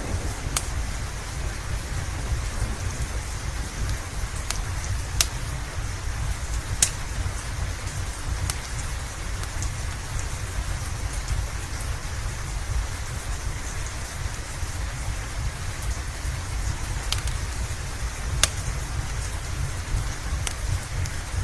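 Steady rain with a deep low rumble underneath. A few sharp crackles from a wood fire, about five of them, pop out of the rain.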